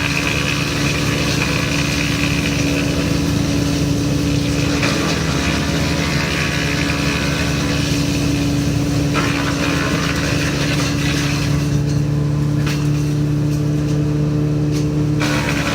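Woodchipper's engine running at a steady speed, with a rougher grinding noise over it that drops away about twelve seconds in and comes back near the end, and a couple of sharp knocks.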